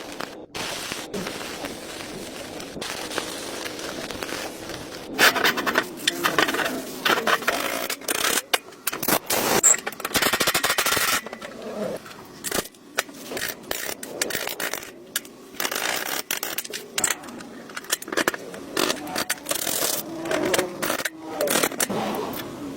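Hand tools scraping and scratching on metal in irregular strokes, with bursts of harsher rasping from about five seconds in.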